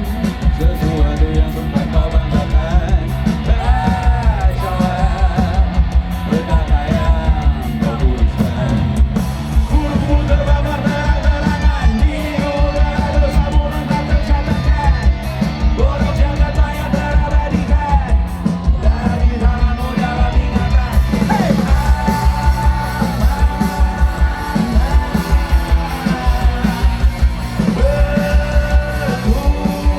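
Loud rock band music with a steady driving drum beat and a shouted singing voice.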